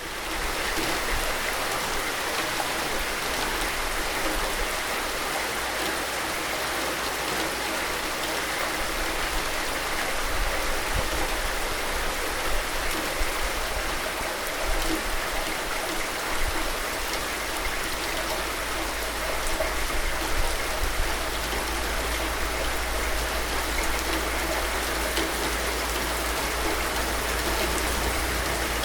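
Steady rain falling: an even hiss with scattered drop ticks and a low steady rumble underneath.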